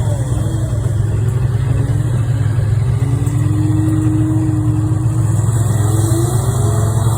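Yamaha Phazer snowmobile engine running at a steady idle, its pitch wavering slightly.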